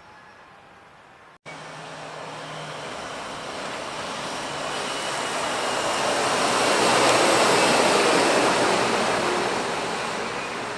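A lorry driving past: engine and tyre noise building up to a peak about seven seconds in, then fading.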